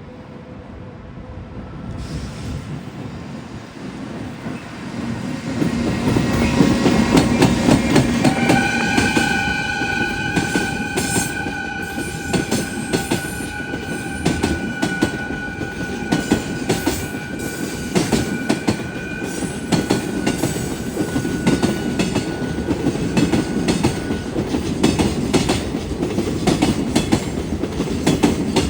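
A freight train hauled by a JR Freight EF210 electric locomotive approaches and passes, its horn sounding one long steady blast of about fifteen seconds, very long for a train horn. Its wagons rumble and clack over the rail joints as they roll by.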